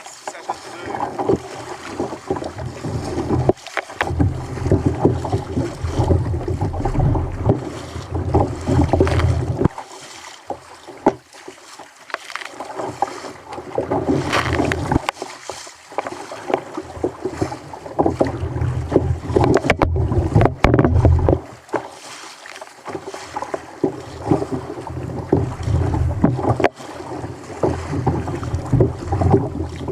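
Wind buffeting the microphone in gusts, with water slapping and splashing against a kayak's hull on a rough sea.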